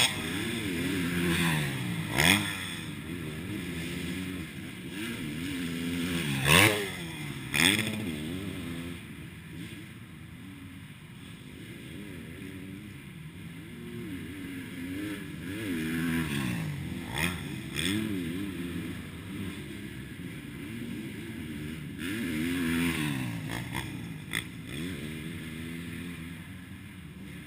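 Motocross bike engine revving up and down over and over, its pitch rising and falling every second or two, with a few sharp knocks and clatters, the loudest two about a third of the way in.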